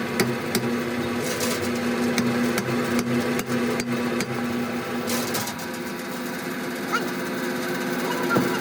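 A motor running steadily with evenly spaced metallic knocks, about three a second; the hum eases a little about five seconds in.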